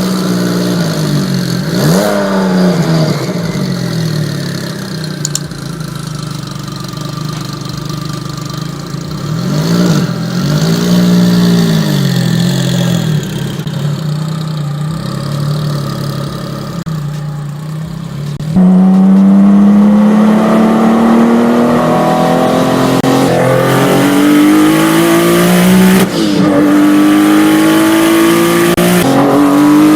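Supercar engine blipping the throttle a couple of times, the pitch rising and falling back to a steady idle. Then it accelerates hard, louder, the pitch climbing steadily and dropping back at each of several upshifts.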